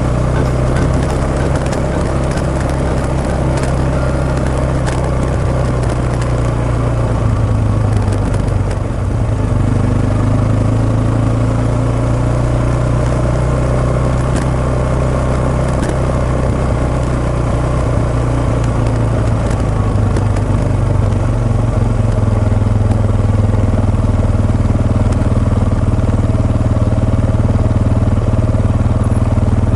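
Suzuki Djebel 250XC's single-cylinder four-stroke motorcycle engine running steadily.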